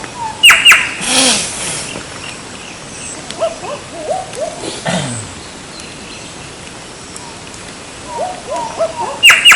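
A bird calling: runs of short falling chirps, with a pair of loud, sharp, high calls about half a second in and another pair near the end.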